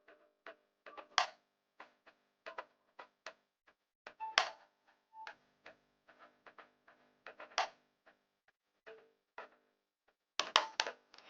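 Raindrops dripping at an irregular pace, each landing as a sharp tap, some with a short pitched plink; a quick cluster of drips near the end.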